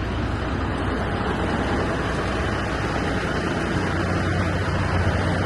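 Heavy diesel truck engine idling, a steady low rumble with no change in speed.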